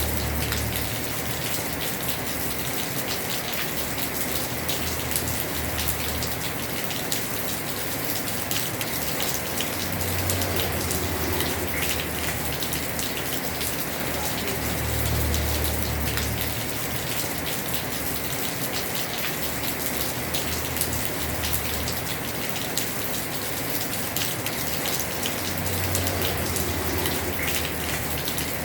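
Heavy rain falling on a house roof: a dense, steady hiss of drops with many small ticks. A low rumble swells and fades several times underneath.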